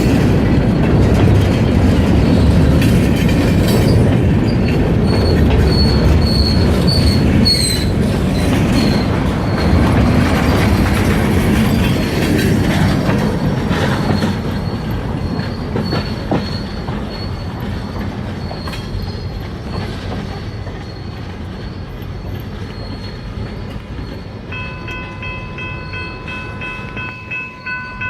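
Freight train cars rolling past on the rails, a loud rumble with high wheel squeal that slowly fades over the second half. Near the end a steady chord of several tones comes in.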